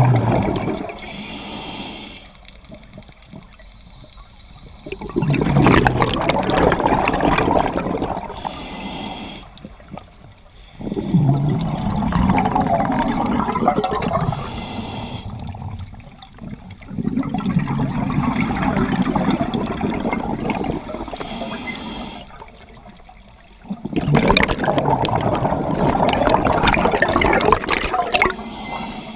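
A scuba diver breathing through a regulator underwater. Each brief hiss of an inhale is followed by a long gurgling rush of exhaled bubbles, in a slow cycle of about one breath every six seconds, with four exhales.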